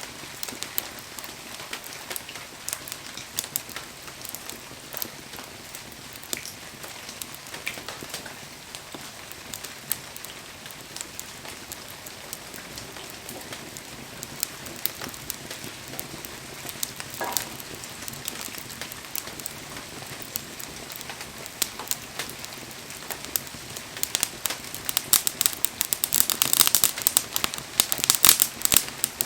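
Wood fire crackling and popping over a steady hiss. The pops come scattered at first and grow louder and thicker for the last few seconds. There is a brief squeal about halfway through.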